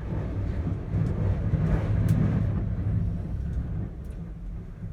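Low, steady rumble inside a moving gondola cabin in high wind, swelling about two seconds in and easing near the end, with a faint click.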